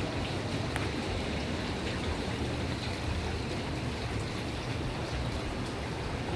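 Steady rushing of water and wind with a low rumble underneath, as heard aboard a moving tour boat.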